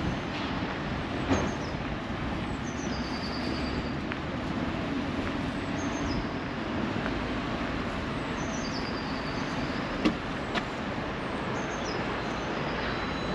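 Steady low rumble and hiss of a train at a heritage railway station, with two sharp knocks, one a second or so in and one about ten seconds in.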